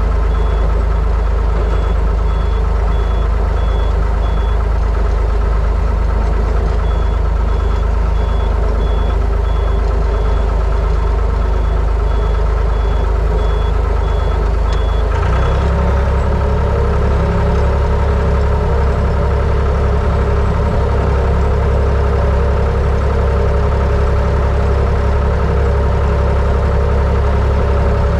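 Plow truck's engine running steadily, with a backup alarm beeping in regular pulses while it reverses. About halfway through the beeping stops and the engine note changes as the truck shifts out of reverse and drives on.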